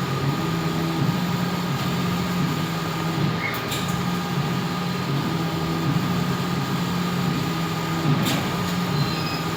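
CNC cutting machine running: a steady mechanical hum with a low tone that shifts slightly in pitch every second or so over a faint steady whine, with two short clicks.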